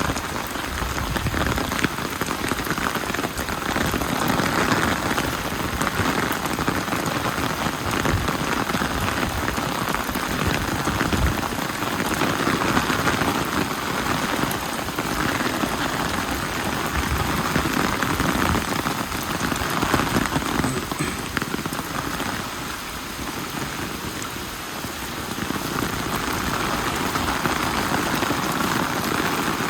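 Steady heavy rain falling and pattering on surfaces, swelling and easing a little every few seconds, with many small drops landing close by.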